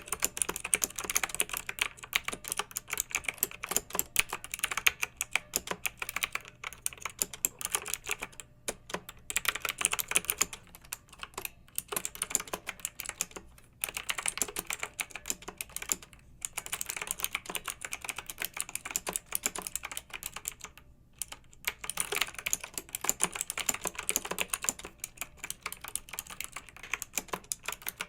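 Fast typing on a clicky mechanical keyboard: dense runs of sharp keystroke clicks, broken now and then by short pauses.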